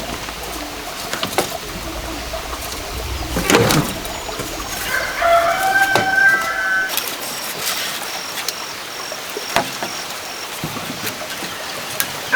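A rooster crows once, about five seconds in, a drawn-out call of about two seconds. Scattered sharp knocks and clicks are heard before and after it.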